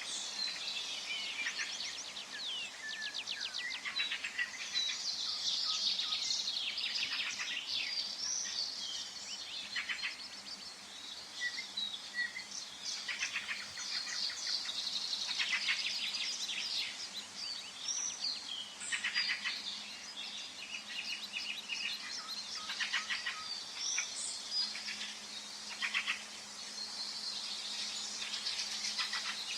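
Many birds singing and calling at once in a woodland chorus: overlapping chirps, fast trills and short whistles, with a soft steady background hiss.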